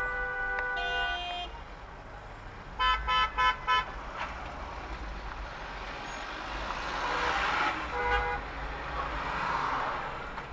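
Car horns honking in traffic: one held honk that shifts pitch partway, then four quick short toots about three seconds in, and another short honk about eight seconds in, over road noise that swells and fades.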